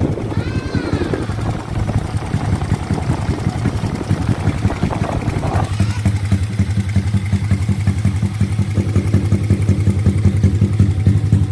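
Drag bike's engine running through an open pipe with no muffler, uneven at first and settling into a steady, evenly pulsing idle about halfway through.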